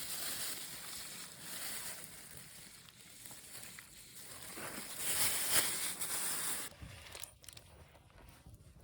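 Meat sizzling over a wood fire, a steady hiss that swells about five seconds in and drops away suddenly near the end.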